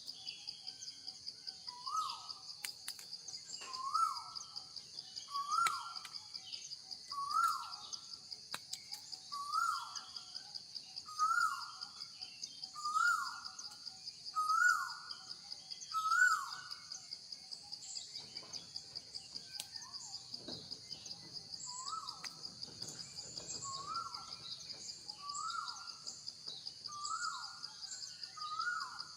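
A bird calls over and over, a short note rising then falling, about once every second and a half to two seconds, pausing briefly about two-thirds of the way through. Behind it runs a steady, high, fast-pulsing insect buzz.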